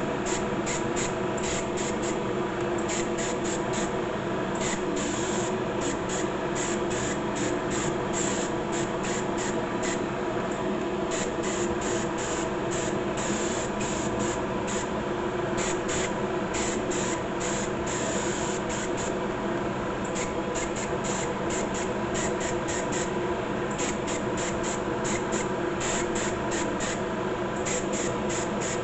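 Clear coat being sprayed onto a plastic model kit: a continuous spray hiss with a steady machine hum underneath and rapid flickering in the hiss.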